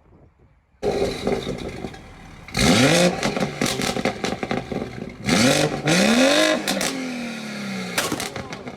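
Car engine revved hard twice, the pitch climbing quickly and dropping away each time, with sharp exhaust pops and crackles between and after the revs.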